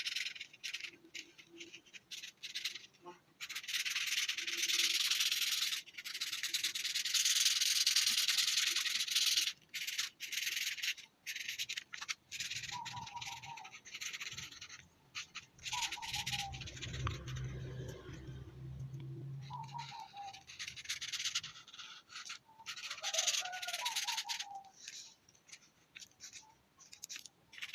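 Colouring strokes on paper: a coloring tool scratching back and forth in long runs broken by short pauses.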